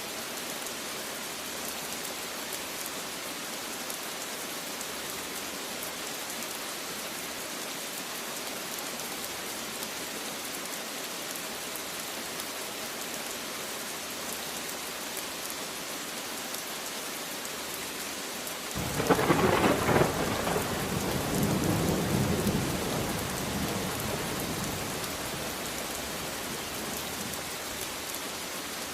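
Steady heavy rain falling, with a sharp thunderclap about two-thirds of the way through that rolls into a low rumble and dies away over several seconds.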